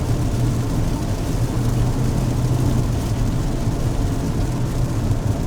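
Car engine and tyre noise on a wet road, heard from inside the cabin while driving: a steady low hum.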